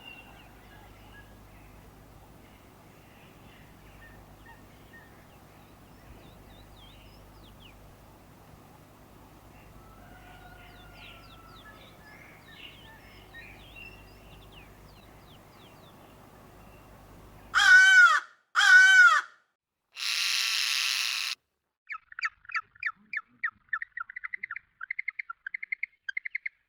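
Bird calls. Faint scattered chirping gives way to two loud, harsh calls about a second apart and then a longer raspy one. A rapid trill of short repeated notes follows near the end.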